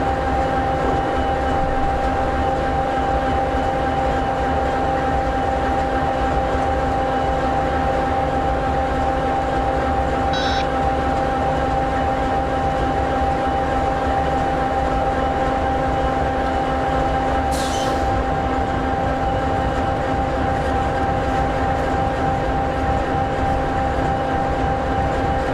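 EMD 16-710G3B sixteen-cylinder two-stroke diesel in an SD60E locomotive idling steadily: an even low rumble with several constant tones held over it. A brief faint high chirp comes about ten seconds in, and a short sharp tick comes about eighteen seconds in.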